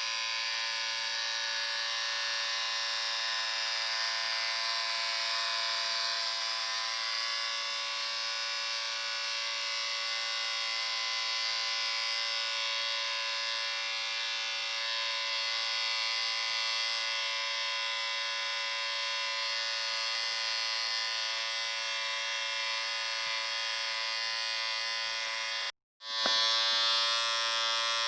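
Electric shaver running with a steady buzz. Near the end it cuts out completely for a split second, then starts again slightly louder.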